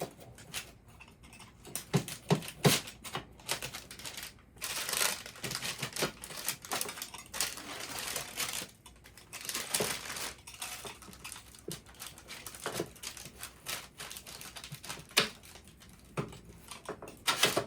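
A freshly baked thin-crust pizza being cut into slices. A run of sharp clicks and knocks is broken by longer scratchy stretches as the blade goes through the crust.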